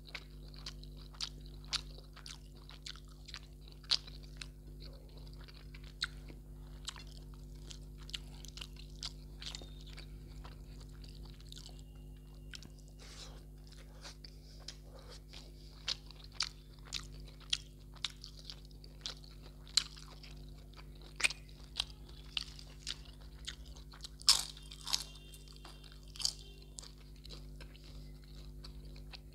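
Close-miked chewing of a mouthful of rice and mutton curry eaten by hand: a steady run of sharp wet clicks and crisp crunches, denser and louder in the second half, over a steady low hum.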